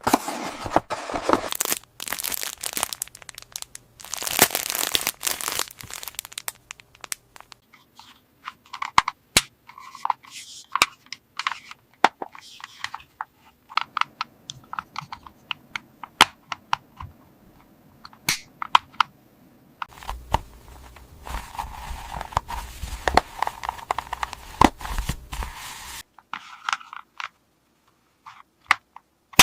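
Plastic toy packaging being torn open and crinkled, followed by small plastic toy pieces clicking and tapping, with another stretch of rustling about two-thirds of the way through.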